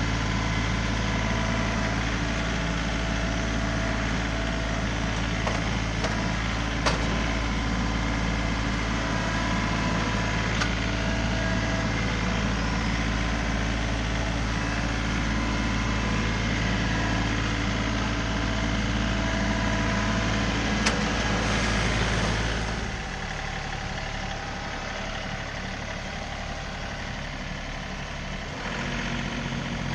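John Deere 3038E compact tractor's three-cylinder diesel engine running steadily, with a few sharp clicks over it. About three-quarters of the way through the engine note drops lower and quieter, then picks up again near the end.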